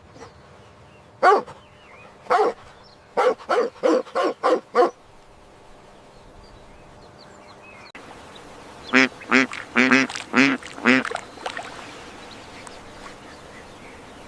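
Duck quacking: two separate quacks, then a quick run of five, and after a pause of a few seconds a second, louder run of about seven quacks.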